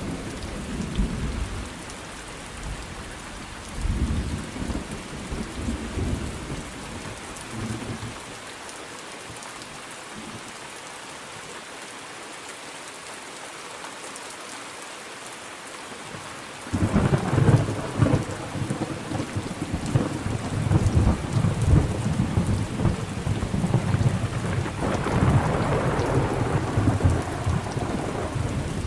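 Steady rain with rolling thunder. The low rumbling dies away for several seconds in the middle, leaving only the hiss of the rain, then a loud crack of thunder breaks in a little past halfway and keeps rolling in waves.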